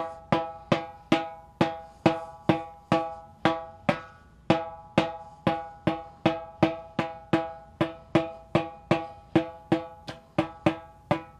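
Ludwig Acrolite aluminium-shell snare drum head being tapped lightly in a steady series of single strokes, a little over two a second, each ringing briefly with a pitched tone. The drum is being checked for pitch around the head after a quarter turn of a tension rod during tuning.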